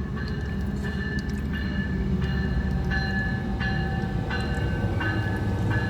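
VIA Rail passenger train led by a Siemens Charger locomotive rolling slowly into the station, with a steady low rumble, and a bell ringing about once every 0.7 s throughout.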